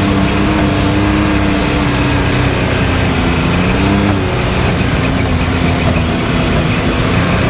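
Can-Am Maverick X3's turbocharged three-cylinder engine running steadily, its pitch dipping and then rising again about three to four seconds in.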